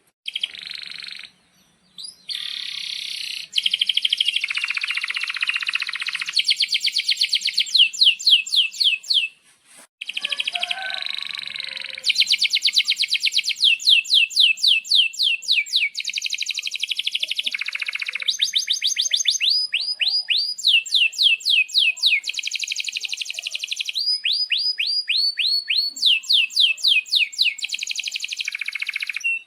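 Male domestic canary singing a long song of rapid trills and rolls, with runs of quick downward-sweeping chirps at several a second, broken by two short pauses.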